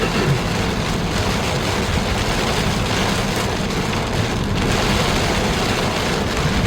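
Steady, even wet rushing noise heard inside a car driving on a rain-soaked road after torrential rain.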